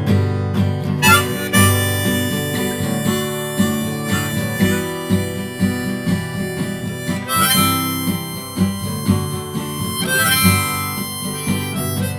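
Instrumental break: a harmonica plays a melody over strummed acoustic guitar.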